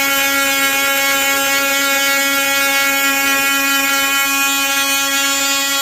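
Cordless Dewalt 20-volt Atomic oscillating multi-tool with a sanding pad running steadily at full speed against the wooden table's edges, a loud, even hum at one constant pitch.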